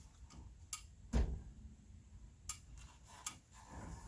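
Scattered knocks and taps of lumber being shifted and set into place on a wooden frame. The loudest knock comes about a second in, and a few lighter clicks follow.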